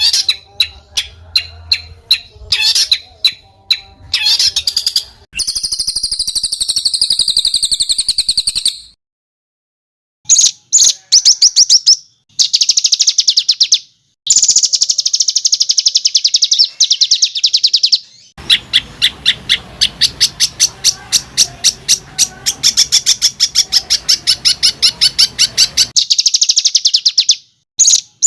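A small songbird singing phrases of fast, harsh repeated notes and tight trills, several seconds each, that stop and start abruptly with short gaps of silence between them.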